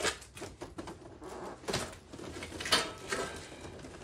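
Knocks and scuffing of a heavy boxed table saw being lowered and set down, with a few sharp thuds, the loudest a little under three seconds in.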